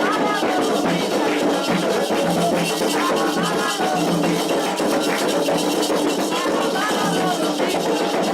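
Candomblé ritual music: voices singing a chant over steady percussion of shakers and drums.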